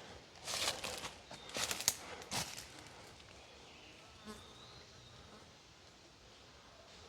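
Footsteps and brushing through rainforest undergrowth, several loud rustling crunches in the first two and a half seconds, then a much quieter stretch of faint forest background.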